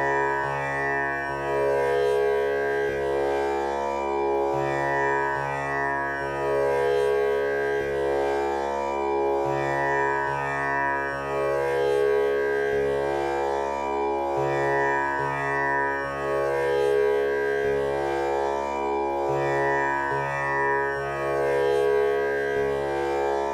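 Tanpura drone tuned to C# (male scale), its four strings plucked in a steady repeating cycle, each note ringing on into the next. The cycle of four plucks comes round about every five seconds.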